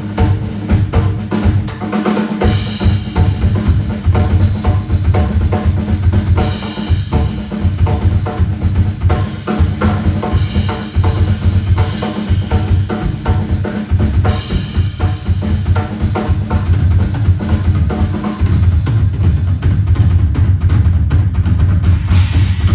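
Drum kit played live at full volume: a fast, dense run of bass drum and snare hits, with a cymbal crash roughly every four seconds.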